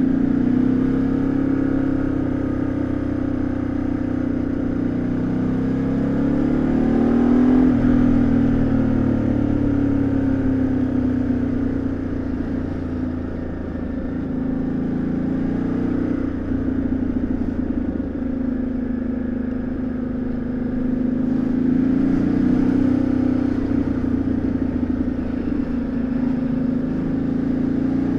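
2013 Ducati Multistrada 1200S's L-twin engine under way, its exhaust note rising and falling as the rider opens and closes the throttle. The pitch climbs to a peak about a quarter of the way in and drops off sharply, runs lower through the middle, then climbs again in the later part.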